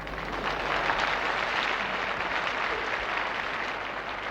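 Concert audience laughing and applauding, swelling about a second in and easing off toward the end.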